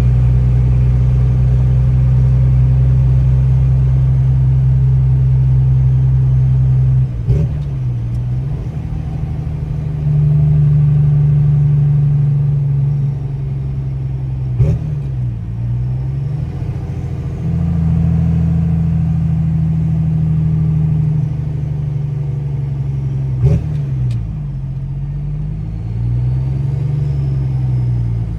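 Pickup truck engine running under way. Three times the engine speed dips and climbs back up, each time with a sharp click, like gear changes.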